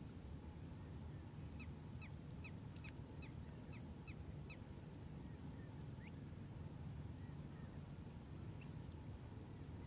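A bird calling a quick run of about seven short, sharp notes, roughly three a second, then a single rising note a little later, over a steady low background rumble.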